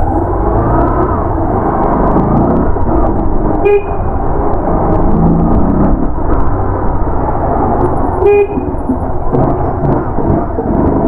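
Continuous engine and road noise from a moving motorcycle, with two short vehicle-horn toots about 4 and 8 seconds in.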